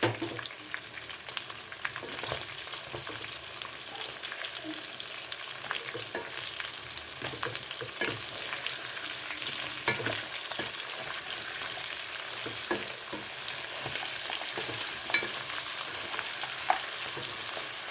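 Chicken pieces sizzling as they fry in mustard oil in a pan, with the scrape and click of a spatula against the pan now and then as it is stirred.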